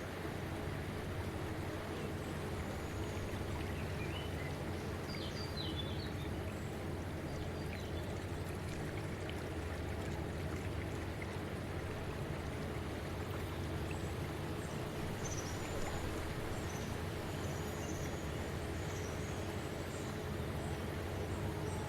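Steady outdoor ambience: an even rushing noise with a low hum beneath it, and a few faint high chirps about five seconds in and again near the end.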